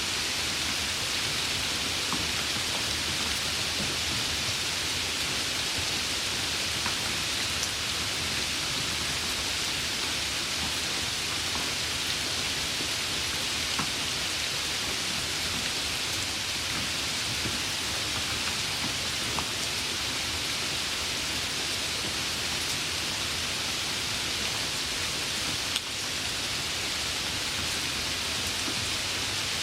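Steady rain falling, an even hiss with scattered faint drop ticks. Near the end there is one sharp click, after which the level briefly dips and recovers.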